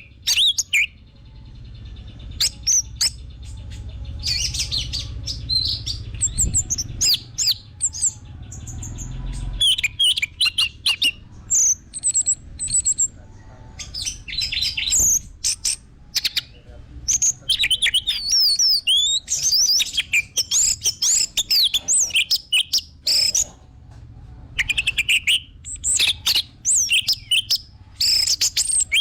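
Orange-headed thrush (anis merah) singing a fast, varied song of high chirps and whistled phrases, in bursts with short pauses. A low rumble sits underneath for about the first third.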